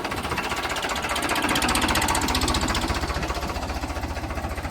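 Tractor diesel engine running with a fast, even knocking beat, a little louder about two seconds in.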